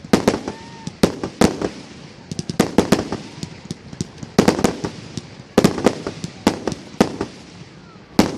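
Aerial fireworks exploding: a rapid, irregular run of sharp bangs and crackles, often several a second in quick clusters.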